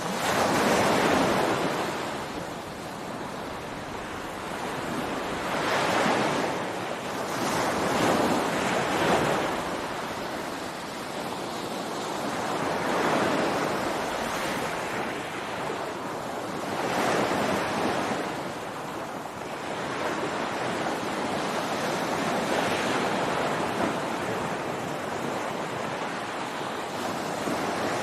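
Ocean waves breaking on a beach: a continuous wash of surf that swells as each wave breaks every few seconds, with some wind buffeting the microphone.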